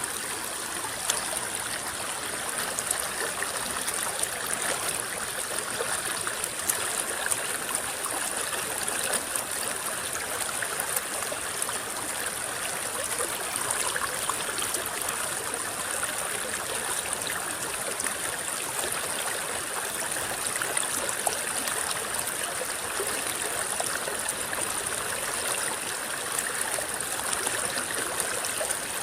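Small river flowing and rippling over stones, a steady trickling, gurgling wash of water with a constant high hiss above it.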